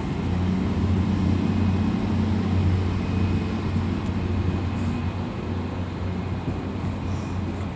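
GWR Class 802 bi-mode train passing under diesel power: a steady low engine drone with a faint high whine that rises in the first second and then holds steady.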